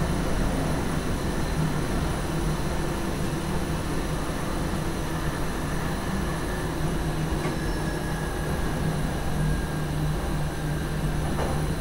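NS sgm Sprinter electric train running along the line, heard from the driver's cab: a steady hum with the noise of wheels rolling on the rails.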